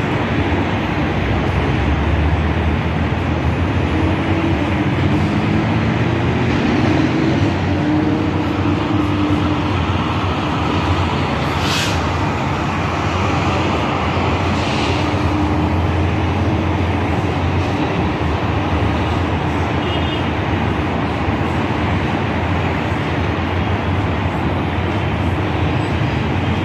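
Steady low rumble of distant engines mixed with wind noise, with a faint wavering drone partway through and a short high chirp near the end.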